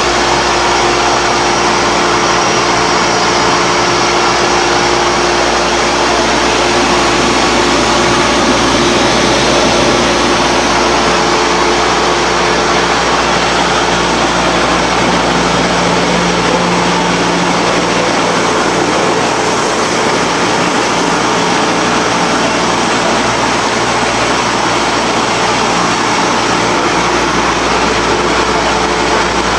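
Puffed snack food extrusion line running: a steady, loud mechanical din with a few held humming tones.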